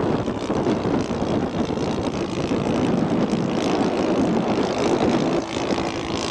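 Engine of a radio-controlled scale model PT-19 airplane running in flight, a steady propeller drone. A steadier hum comes in near the end.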